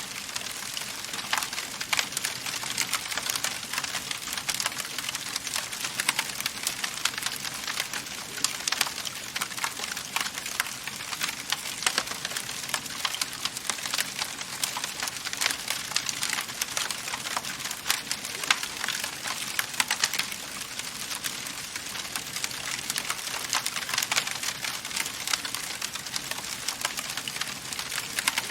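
Wood fire in a fireplace crackling steadily, with frequent small pops and snaps over a soft hiss of burning.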